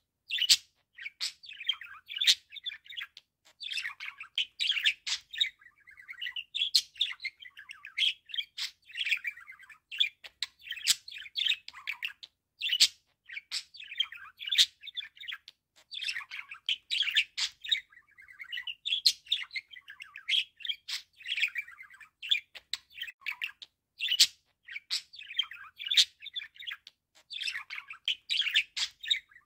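Budgerigar warbling: a continuous chatter of quick chirps, clicks and short whistles, broken by a couple of brief pauses.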